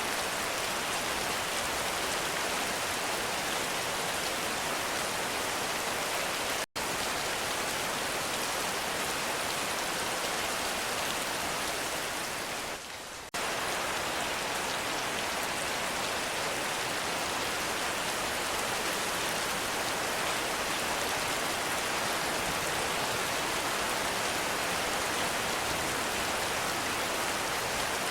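Heavy rain falling steadily, an even dense hiss. The sound drops out for an instant about a quarter of the way in and dips briefly near the middle.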